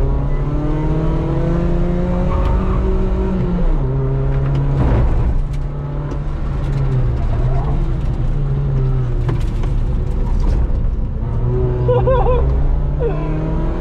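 Car engine pulling hard on a race circuit, heard from inside the cabin: the engine note climbs, drops sharply as the driver shifts or lifts, and climbs again several times, with a brief lull about six seconds in.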